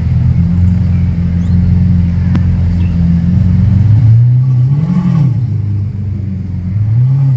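Lamborghini Aventador's 6.5-litre V12 idling with a deep, steady note, then revved once about four seconds in, the pitch rising and falling back. A smaller rev blip comes near the end.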